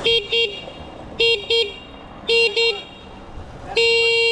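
A vehicle horn honking, one steady tone, in three quick double toots and then a long blast near the end.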